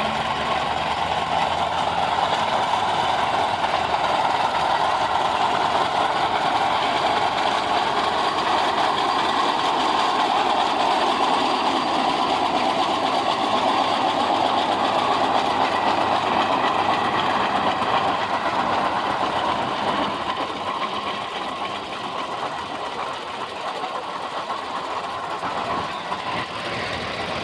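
Antique tractor engine running steadily, dropping a little in level after about twenty seconds.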